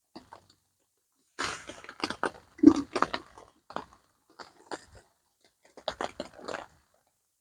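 A person eating, chewing and biting food in several short crunchy bursts that begin about a second and a half in.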